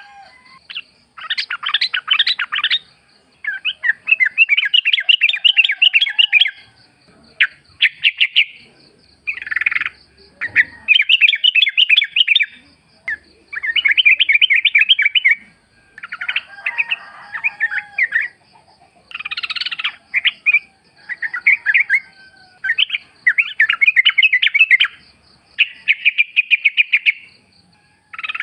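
Yellow-vented bulbul (trucukan) singing: loud, bubbly chattering phrases of one to two seconds, repeated about a dozen times with short pauses.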